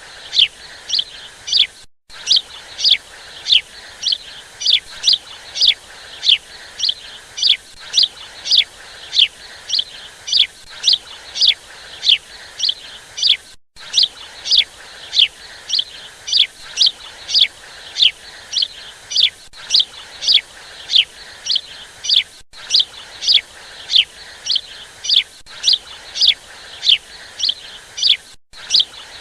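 A bird chirping over and over, short falling chirps at an even pace of about two a second.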